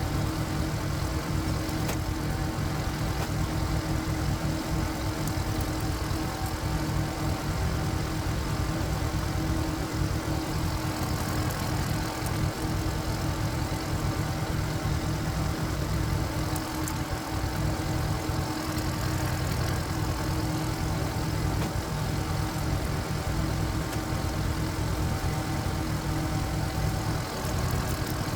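Engine of a walking tractor (power tiller), a single-cylinder diesel, running steadily without a break.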